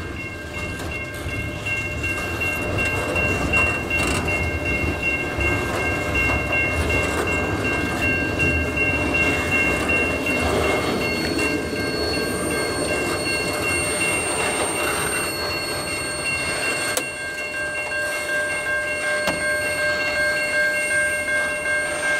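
Double-stack intermodal container cars rolling past, a steady rumble of wheels on rail with a high-pitched squeal held on several steady tones.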